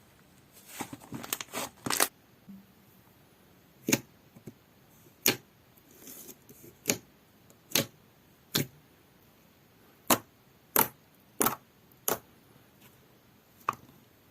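Slime being pressed and squeezed by hand, letting out sharp clicking pops: a quick run of small clicks in the first two seconds, then single loud pops about once a second.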